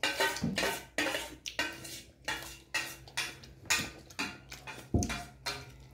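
A metal spoon clinking and scraping on a plate, with about ten sharp strokes spaced roughly half a second apart, as food is scooped up to eat.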